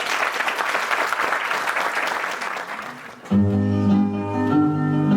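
Audience applause fading out, then music starting abruptly about three seconds in, with a steady bass line and clear pitched notes above it.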